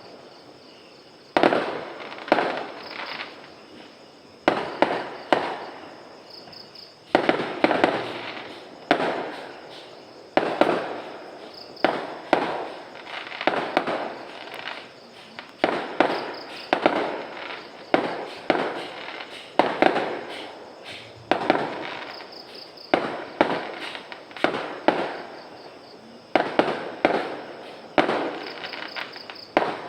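Fireworks exploding one after another, a sharp bang roughly every one to two seconds, each trailing off over about a second.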